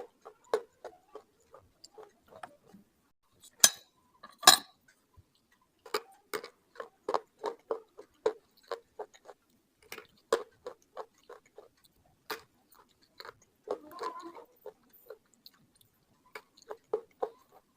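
Slate pencils being bitten and chewed close up: a run of sharp, dry crunches, two or three a second, with two loud snapping bites about four seconds in.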